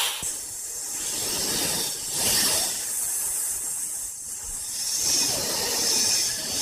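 A loud, noisy hiss with no clear pitch, swelling and easing several times, the kind of hiss an animal makes when threatened.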